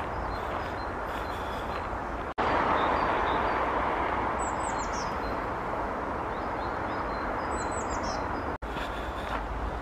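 Outdoor ambience of a steady rushing noise with small birds calling: faint short notes throughout and two quick falling phrases. The noise cuts out for an instant twice, once a couple of seconds in and again near the end, and is louder between those breaks.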